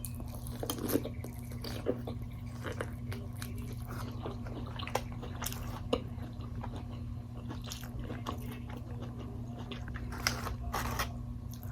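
Close-up mouth sounds of a person biting and chewing crunchy Wingstop food, with irregular crunches and crackles scattered through, over a steady low hum.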